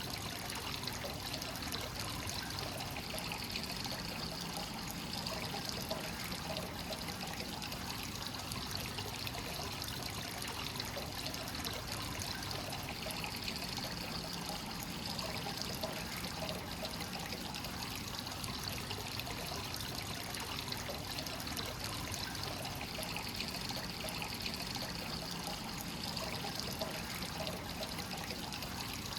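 Hot-spring source water flowing continuously into a bath, a steady sound of running and pouring water.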